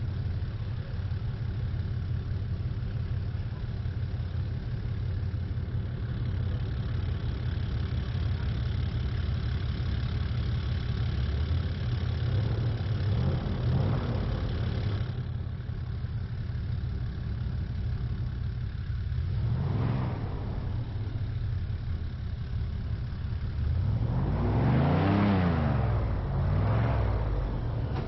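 Airboat engine and propeller running steadily, with the pitch swelling up and back down three times, the last and loudest near the end.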